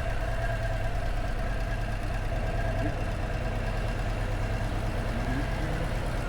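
Harley-Davidson Low Rider ST's Milwaukee-Eight 117 V-twin running steadily at low revs.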